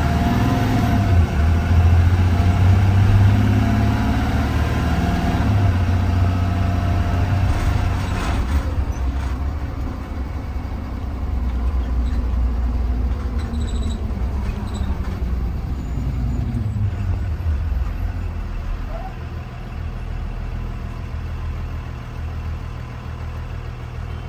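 2020 Blue Bird Vision school bus engine heard from inside the bus while driving. It rises in pitch as the bus pulls away and accelerates, holds while it cruises, then drops as the bus slows, leaving a steadier lower hum near the end.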